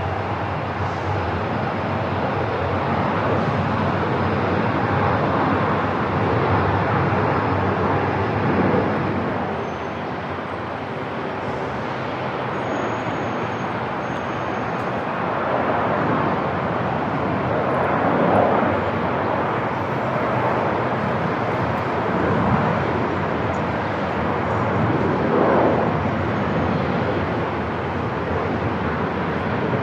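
Airport ambience: a steady wash of noise with gentle swells and a few brief louder surges in the second half.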